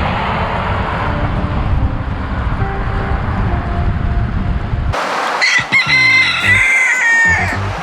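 Wind rumbling on the microphone while cycling, then, after a sudden change about five seconds in, a rooster crowing once for about two seconds, the call dropping in pitch at its end.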